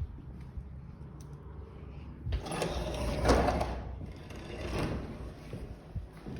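Footsteps going down a stairwell, with scuffing and knocking that gets louder from about two seconds in.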